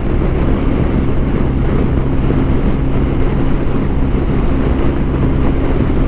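BMW R1250 RT motorcycle's boxer-twin engine running steadily while riding, with wind and road noise.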